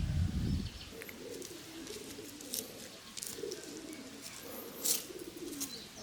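Pigeons cooing in repeated low, warbling phrases, with a few sharp clicks, the loudest about five seconds in. A loud low rumble fills the first moment and cuts off.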